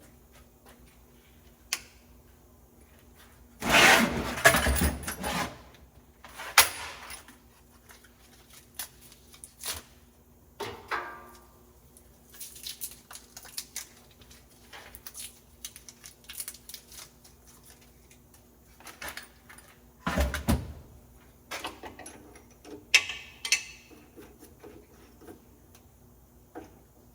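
Pieces of steel being handled on a shop bench: scattered clinks and knocks with two louder clattering bursts, over a faint steady hum.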